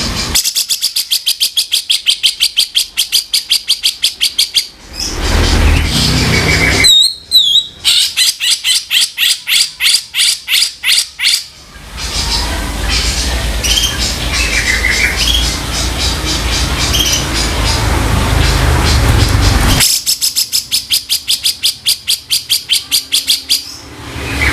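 Grey-cheeked bulbul (cucak jenggot) giving its harsh 'kasaran' calls: three runs of rapid rough notes, about six a second, each lasting several seconds. A brief wavering whistle comes between the first two runs, and a stretch of noisier chatter over a low rumble between the second and third.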